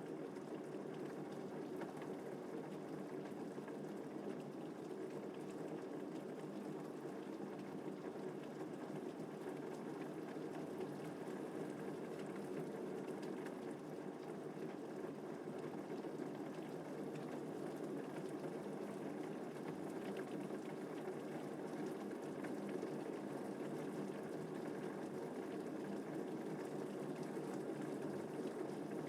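Steady rain falling, a continuous even hiss with scattered faint ticks of drops.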